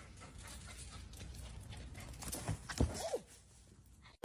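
A dog making a few short, faint whines about two and a half to three seconds in, over a low steady rumble; the sound cuts off about a second before the end.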